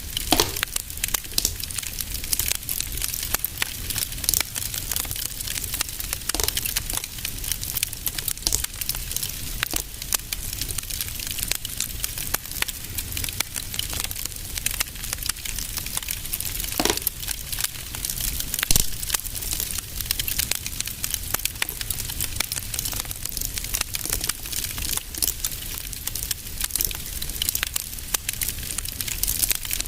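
Fireplace fire crackling steadily with a constant patter of small irregular pops and a few louder snaps, over a low steady rumble.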